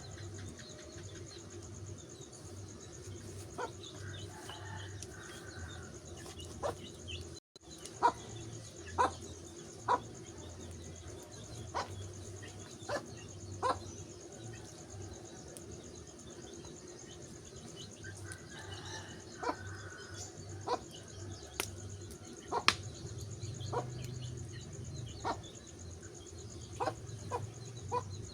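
Wood fire crackling, with sharp irregular pops over a steady low background.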